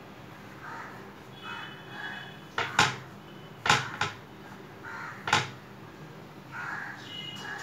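Repeated short, harsh bird calls. Four sharp clicks or knocks in the middle are the loudest sounds.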